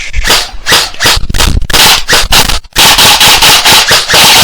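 Airsoft guns firing: a run of sharp shots a few per second, then, after a brief drop-out about two and a half seconds in, faster fire under a dense, loud rush.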